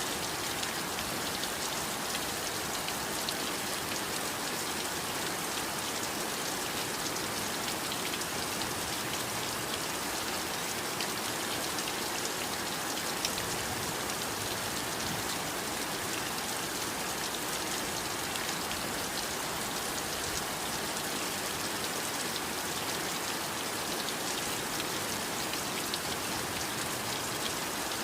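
Heavy rain falling steadily: an even hiss with many fine drop ticks.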